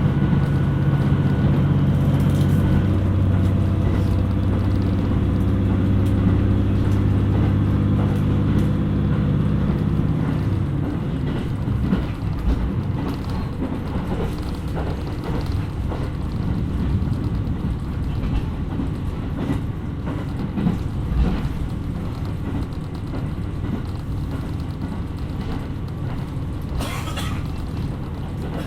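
KiHa 127 series diesel railcar under way. The diesel engine drones steadily under power, then drops away about ten seconds in as the railcar coasts. After that, wheel and track rumble remains, with occasional short clicks from the rails.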